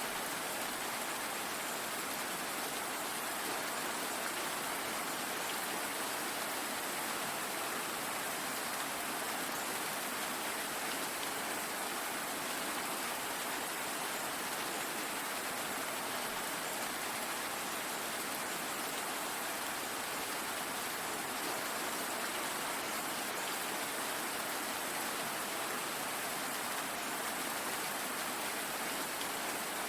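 Steady rain falling, an even hiss without distinct drops or thunder.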